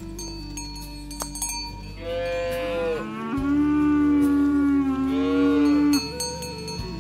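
A cow mooing: one long call of about four seconds that begins about two seconds in, its pitch dropping partway through. Faint ringing and clinking tones sound under and around it.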